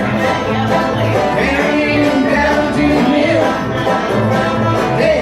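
Live bluegrass string band playing an instrumental break between sung verses: a picked lead line over a steady rhythm, with low bass notes pulsing about twice a second.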